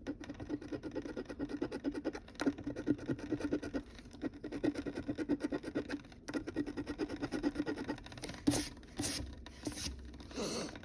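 Scratch-off lottery ticket being scratched off with quick back-and-forth strokes. A few louder swipes come near the end.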